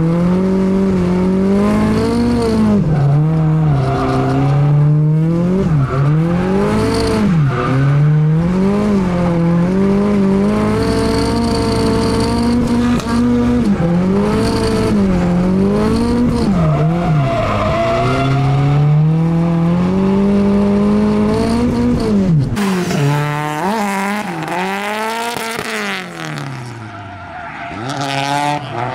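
Honda K24 four-cylinder engine of a drift car heard from inside the cabin, revving up and down again and again as the throttle is worked through a drift, with tyres squealing. About 22 seconds in, the sound changes to a drift car heard from outside, further off, its engine falling then rising again.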